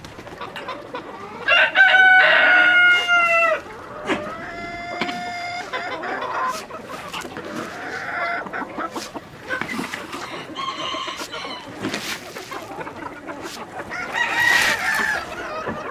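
Farmyard chickens calling: a rooster crows loudly about a second and a half in, amid hens clucking, with another shorter call near the end.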